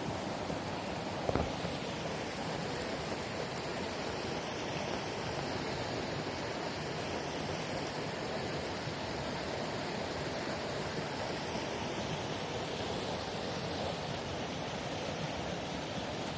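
Rain falling in a steady hiss, with one brief knock about a second in.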